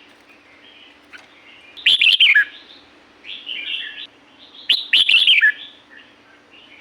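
Red-whiskered bulbul singing: two loud, short warbling phrases about three seconds apart, with softer chirps between them. A faint steady low hum runs underneath.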